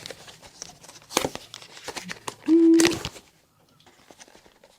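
Packaging of a box of keyboard switches being torn open: crinkling and tearing rustles with a few sharp clicks. About two and a half seconds in comes a brief pitched tone lasting about half a second, the loudest sound, after which it goes quiet.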